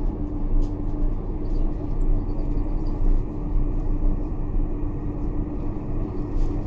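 Steady cabin noise of a Boeing 747-400: a low engine and airframe rumble with a constant hum, holding level without rising or falling.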